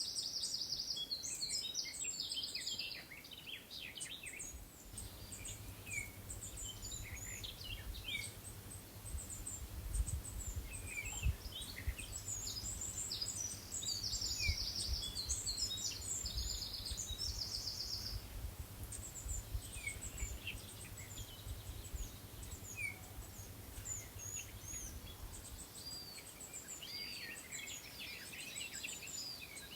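Small songbirds chirping and singing, with several rapid trills near the start and again around the middle. A low rumble with a few dull knocks sits underneath through most of the stretch.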